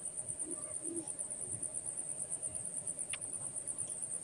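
Cricket chirping: a faint, high, even trill of rapid pulses, about ten a second.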